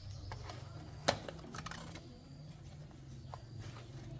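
A sharp click about a second in, followed by a few lighter clicks and taps, over a low steady hum.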